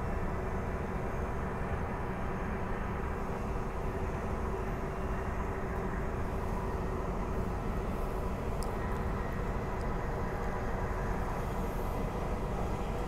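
Bombardier B-series electric multiple unit train running along the track, heard from inside the carriage: a steady rumble of wheels and running gear with a faint even hum.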